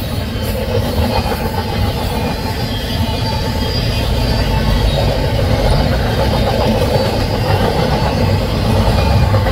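Double-stack intermodal well cars of a freight train rolling past: a loud, steady roar of steel wheels on the rails.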